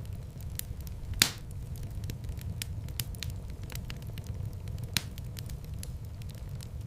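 Wood fire burning in a fireplace: a steady low rumble of flames with scattered crackles, a loud pop about a second in and another sharp crack about five seconds in.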